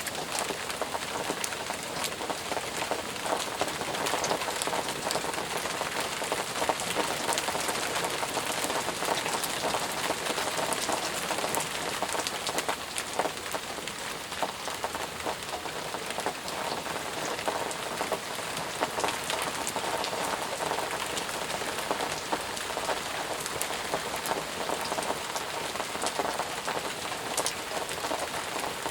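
Steady heavy rain falling on a surface, a dense even hiss dotted with many close drop hits.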